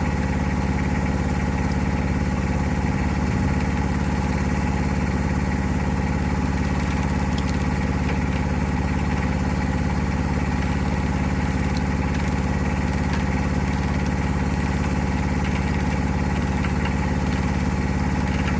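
An engine idling steadily, holding one even speed throughout.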